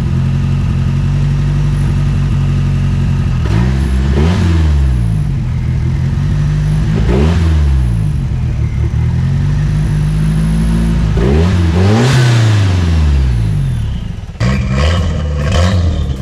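1987 Merkur XR4Ti's turbocharged 2.3-litre four-cylinder engine idling steadily, then revved three times with the hood open, each rev rising and falling back to idle, the third held longest. Near the end the sound cuts to the car running on the street with more quick revs.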